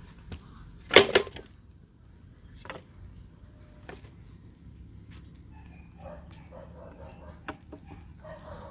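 A few sharp knocks or snaps. The loudest is a quick double one about a second in, with fainter single ones later. A steady high-pitched drone runs underneath.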